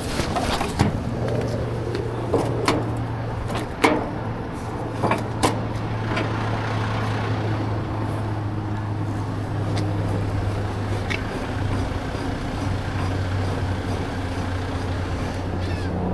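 Diesel truck engine idling with a steady low hum. Over it come several sharp knocks and clanks from load-securing gear, mostly in the first six seconds.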